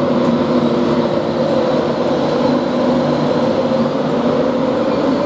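InterCity 225 train at the platform, running with a steady hum made of several held tones over a noisy background; some of the lower tones fade out between two and four seconds in.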